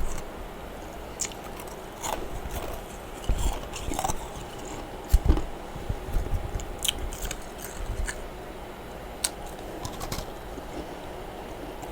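Freezer frost being bitten and chewed close to the microphone: irregular crisp crunches, the loudest about five seconds in.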